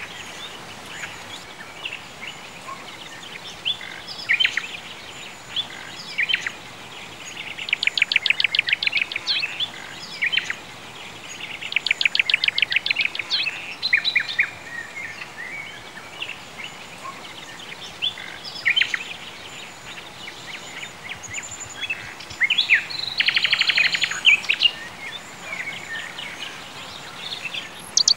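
Songbirds singing: scattered short chirps and three rapid trills, each lasting about a second, over a faint steady outdoor hiss.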